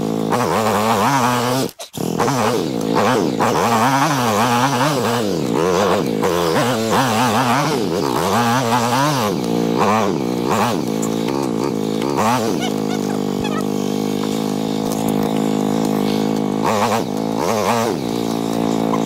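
Engine of a 2001 KTM EXC 400 dirt bike, a four-stroke single, running with its pitch repeatedly swinging up and down. The sound cuts out briefly about two seconds in.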